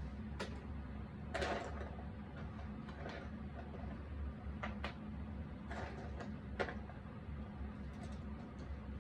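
Cardboard jigsaw puzzle pieces being handled and set down: scattered soft clicks and short rustles, a longer rustle about a second and a half in, over a low steady hum.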